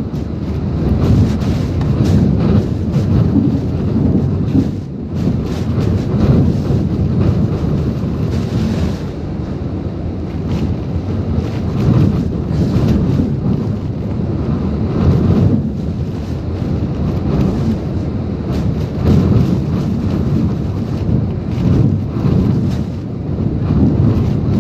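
Typhoon-force wind and rain pounding, loud and surging in gusts every second or two, with the wind buffeting the microphone.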